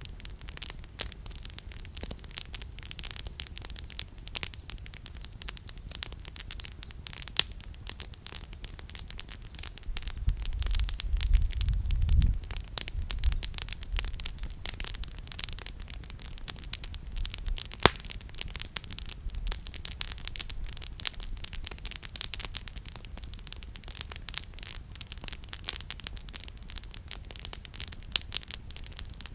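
Wood campfire crackling with a steady run of small snaps and pops, and one sharp louder pop about 18 seconds in. A low rumble rises for about two seconds near the middle.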